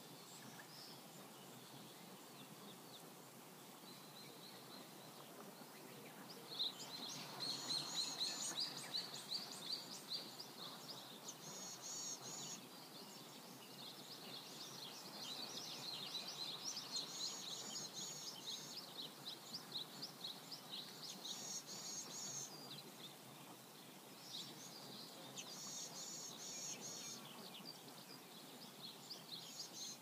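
Songbirds chirping and singing in the trees over a steady background hiss, growing busy about six seconds in, with one short phrase recurring every four or five seconds.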